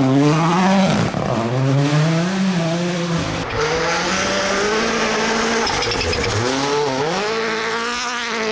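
Rally car engine revving hard, its pitch dropping and climbing again several times as the driver lifts and changes gear.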